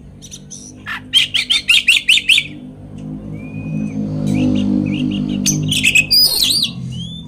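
Oriental magpie-robin singing: a quick run of about eight sharp, repeated high notes, a short whistled glide, then more loud, varied phrases, a song laced with mimicked calls of other birds. A low hum swells in the background midway and fades near the end.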